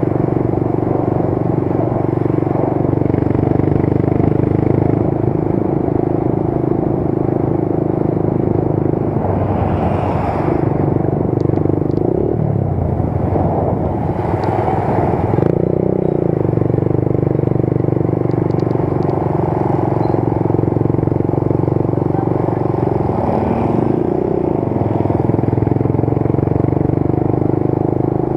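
Motorcycle engine running steadily while riding, with road and wind noise. Roughly halfway through, the engine note drops and picks up again as the speed changes.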